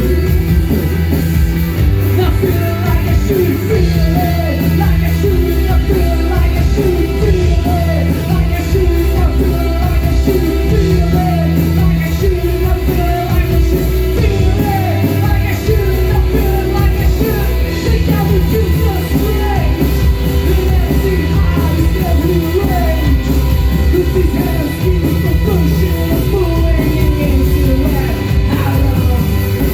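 Post-punk band playing live, loud and steady, with heavy bass and drums, guitars and vocals at times.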